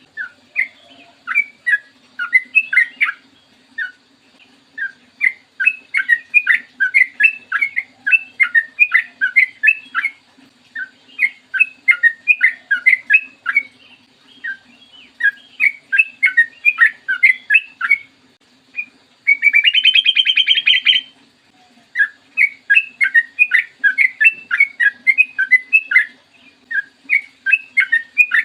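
Yellow-vented bulbul singing: phrase after phrase of quick, bubbly chirping notes with short pauses between. About two-thirds of the way through comes a brief harsh, buzzy rattle. A faint steady hum lies underneath.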